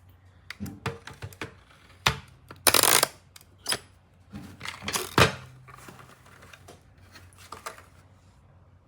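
Irregular plastic clicks and knocks from a small rechargeable camping fan being handled, with two louder scraping, rustling bursts, the first about three seconds in and the second about five seconds in.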